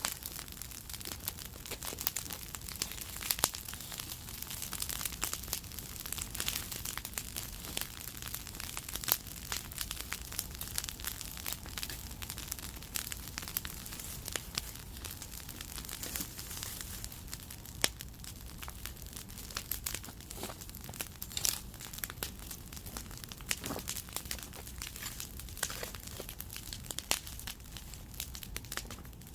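Bonfire burning dried chili pepper stalks, crackling steadily with dense snaps and now and then a louder pop.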